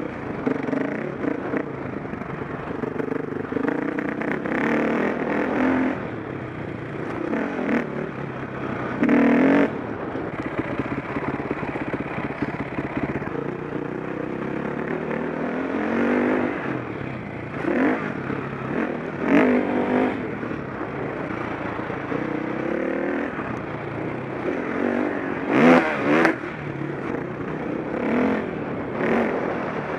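KTM 525 SX four-stroke single-cylinder motocross engine revving up and down under riding, its pitch rising and falling repeatedly. Several short, loud clattering knocks cut through it, the loudest about 26 seconds in.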